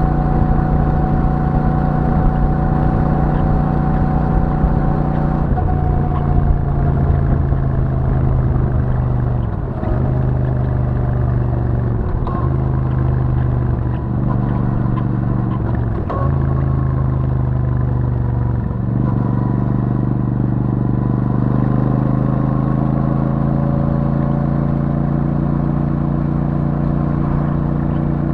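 Royal Enfield Super Meteor 650's 648 cc parallel-twin engine running through its stock exhaust while riding. The engine note dips briefly five or six times, then revs climb slowly over the last third.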